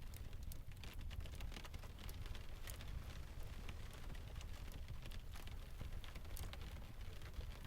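Rain ambience: steady rain hiss with many scattered sharp ticks and pops over a steady low rumble.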